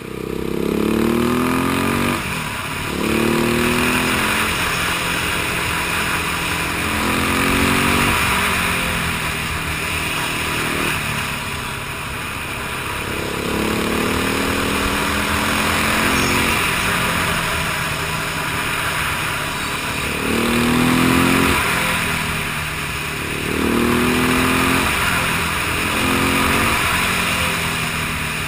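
Motorcycle engine accelerating hard, its pitch climbing and then dropping again at each gear change, over and over.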